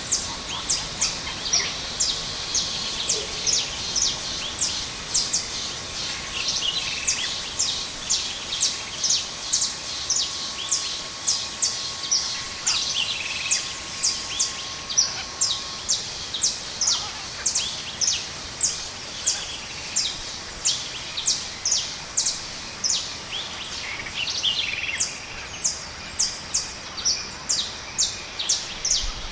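Small birds chirping: short, high chirps that fall in pitch, repeated about twice a second over a steady background hiss. A faint steady tone runs under them and stops about halfway through.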